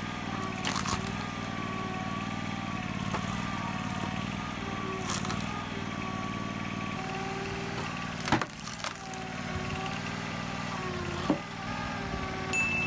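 Engine of a wood splitter running steadily under load, its pitch wavering slightly, with four sharp cracks spaced a few seconds apart as the continuously working blade splits logs.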